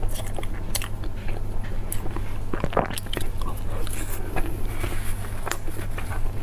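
Close-miked chewing of soft chocolate cake, with many small irregular wet mouth clicks over a low steady hum.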